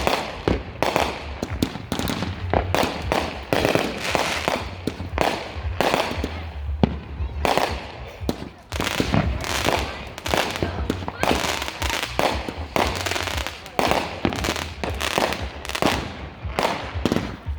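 Consumer aerial fireworks going off in a dense, irregular run of sharp bangs and bursts, about two or three a second, with a low rumble underneath.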